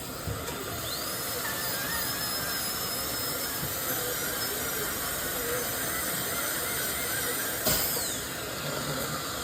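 High-speed dental handpiece cutting a tooth preparation on the upper first molar: a high whine that rises about a second in and wavers in pitch as the bur loads, over a steady hiss. Near the end it stops with a sharp click and the whine falls away.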